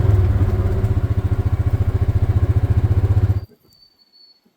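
A small vehicle engine idling with a steady, even throb, then shut off abruptly about three and a half seconds in.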